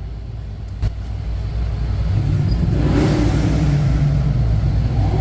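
Engine of a 1948 Ford F5 bus running under way, a steady low rumble that grows louder about two seconds in as it pulls, with a short click about a second in.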